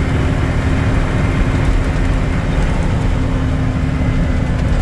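Water truck's diesel engine running steadily under way, a dense low rumble with a steady hum, as heard from inside the cab.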